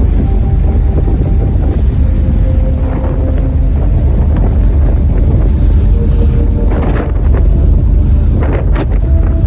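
Car ferry under way: the steady low rumble of its engines, with wind buffeting the microphone. Faint held tones shift pitch every second or two, and there are a few brief knocks.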